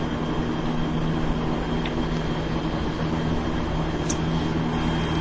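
Steady background hum with a constant low drone, unchanging throughout.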